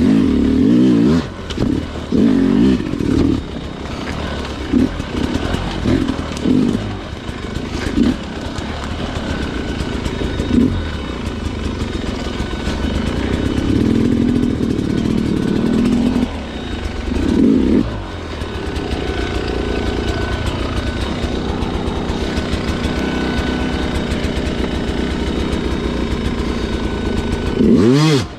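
Sherco two-stroke dirt bike engine worked in short, repeated bursts of throttle, then running more steadily, with a quick rev up and down near the end.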